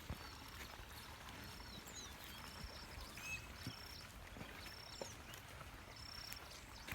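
Faint outdoor ambience with a bird repeating a short, high, thin note about once a second, mixed with a few quick chirps, over a low background rumble.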